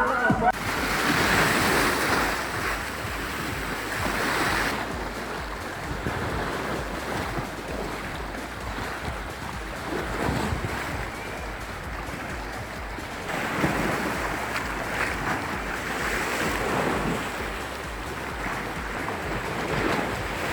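Sea waves washing in, with wind buffeting the microphone; the wash swells and fades in slow surges.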